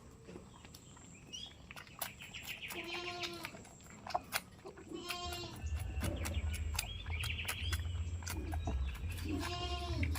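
Goats bleating: three wavering calls, about 3, 5 and 9.5 seconds in, with short clicks and knocks between them.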